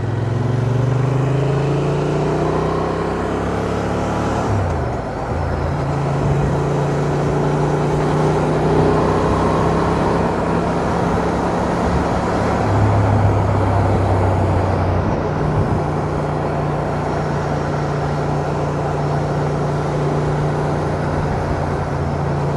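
Honda Transalp's twin-cylinder engine pulling up through the revs for about four seconds, dipping briefly at a gear change, then running at steady riding revs, over a steady rush of wind and road noise.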